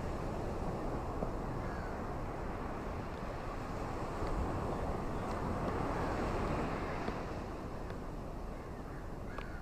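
Ocean surf washing onto a beach: a steady rush of waves that swells about four seconds in and eases after about seven seconds.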